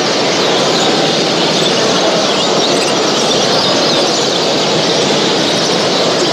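Dense, steady chorus of many caged show birds chirping and singing at once, a constant high twittering over a loud hall din.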